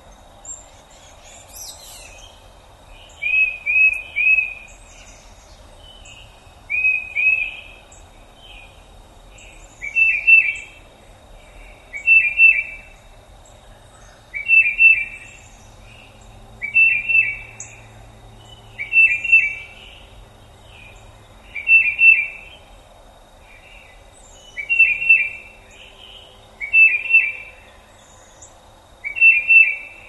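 A songbird singing a short phrase of a few quick notes over and over, about every two seconds, with fainter high chirps from other birds and a steady hiss of outdoor background behind it.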